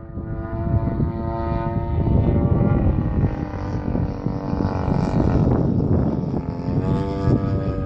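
Model airplane's engine and propeller running with a steady buzzing whine, its pitch dropping a little about three seconds in and rising again near the end, over a low rumbling noise.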